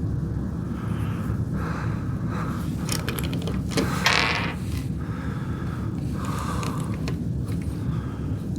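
LEGO plastic pieces being handled and pressed together: small clicks and rattles, with a short rustle about four seconds in, over a steady low hum.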